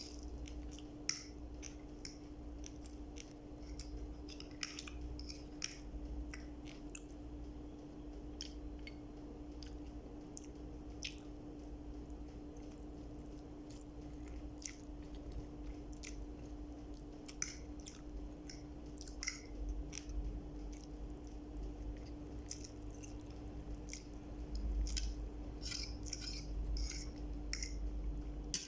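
A person chewing and eating, with wet mouth clicks and smacks scattered irregularly throughout. A faint steady hum runs beneath.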